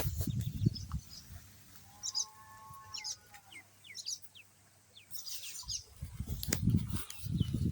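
Ducklings peeping: short, high chirps repeated every half second or so through the middle. At the start and again in the last two seconds there are bursts of low, rumbling noise.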